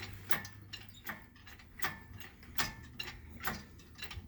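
Hand-worked metal mechanism clicking in a slow, even rhythm, about one click every three-quarters of a second, over a steady low hum.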